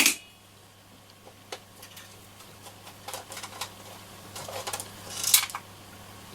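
Small metal tools and parts clicking and scraping on a workbench as a screwdriver is picked up and set to the screws of a radio's switch bank: a sharp click at the start, scattered light ticks, and a louder scraping rattle about five seconds in.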